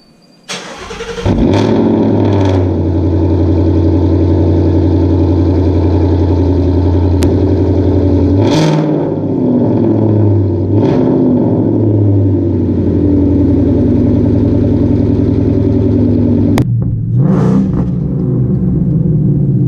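Straight-piped exhaust of a supercharged Coyote 5.0 V8 in a 2016 Ford Mustang, its mufflers replaced by muffler-delete pipes, running very loud. It comes in abruptly about a second in and holds a steady drone, with short changes in pitch around eight and eleven seconds in and a sharp break near the end.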